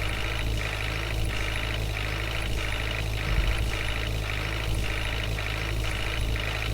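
Heavy diesel engine of a tractor or loader machine running steadily, with an even pulse about one and a half times a second.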